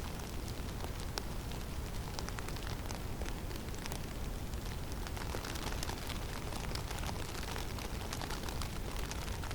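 Snowstorm in a forest: a steady low rush of wind with a constant fine patter of small ticks from falling snow striking branches and the ground.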